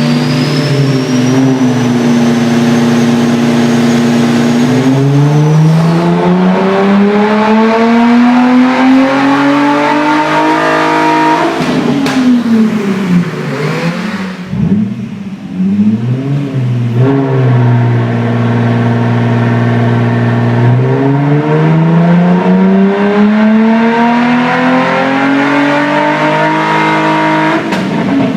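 Nissan 350Z's 3.5-litre V6 running through a prototype chambered exhaust, pulled hard twice: the engine note holds steady, climbs for about six seconds to high revs and drops away, then climbs and drops off again near the end.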